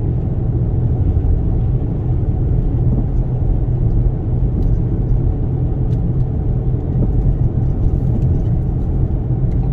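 Steady low rumble of road, engine and wind noise inside a Toyota Sienna minivan's cabin as it drives slowly through a blizzard.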